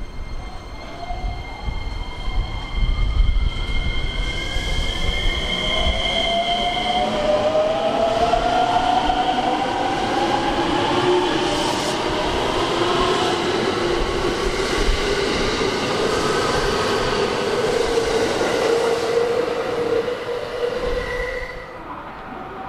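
Electric commuter train pulling out of the station: its motors whine in several slowly rising tones as it picks up speed, over the rumble of wheels on rails as the cars pass. The sound drops away about a second before the end.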